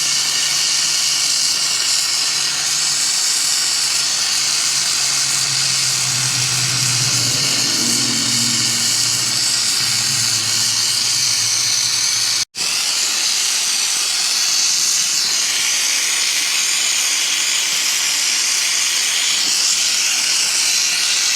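Gas torch flame hissing steadily, heating the cylinder around a seized, broken head stud to loosen it. The hiss cuts out for an instant about halfway through, and a low hum sits under it before that.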